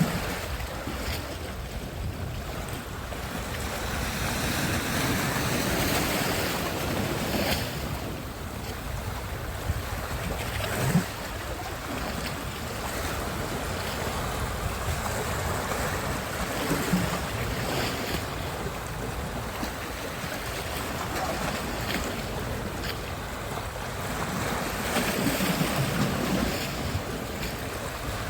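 Sea surf washing onto a beach, a continuous rush of breaking waves that swells and ebbs every several seconds, with wind rumbling on the microphone. One short sharp knock comes about eleven seconds in.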